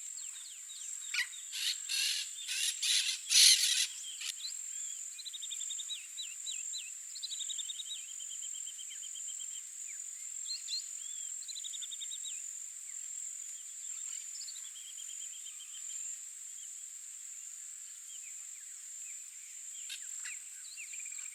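Wild birds calling: a run of loud, harsh calls in the first four seconds, then several rattling trills, with a few more calls near the end, over a steady high-pitched insect buzz.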